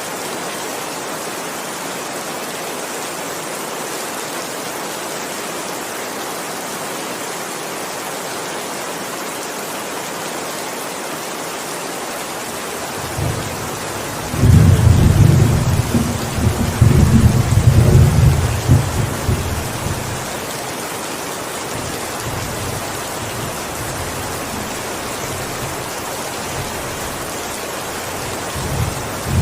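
Steady heavy rain with thunder. About halfway through a low thunder rumble swells, peaks for several seconds and fades back into the rain, and a short second rumble starts right at the end.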